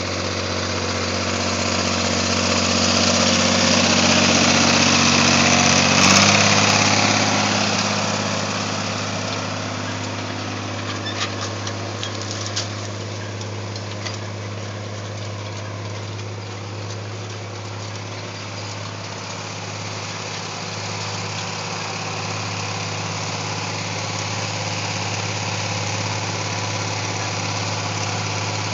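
John Deere 4020 tractor's six-cylinder engine running, louder for the first several seconds, then dropping back about six seconds in to a steady idle. A few faint clicks are heard about halfway through.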